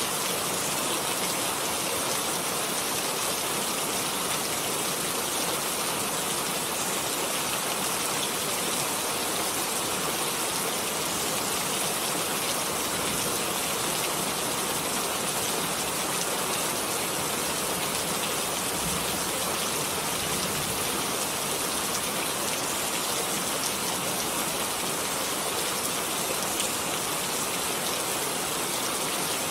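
Steady rain falling on a surface: an even hiss with closely spaced drops and no change in intensity.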